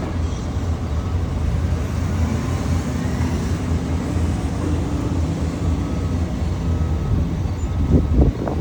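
Machinery running with a steady low rumble, like an engine; a faint hum wavers through the middle, and a few knocks come near the end.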